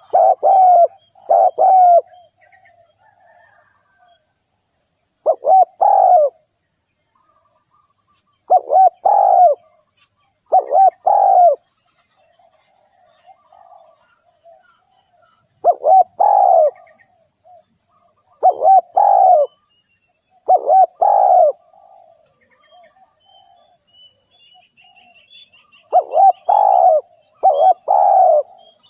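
Spotted dove cooing: short groups of two to four low coos, with pauses of one to four seconds between the groups.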